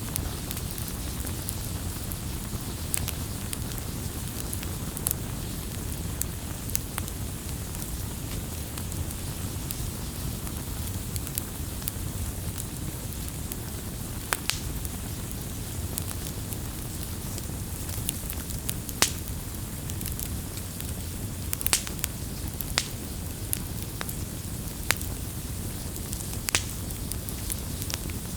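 Wood campfire burning: a steady low rush of flames with irregular sharp crackles and pops throughout.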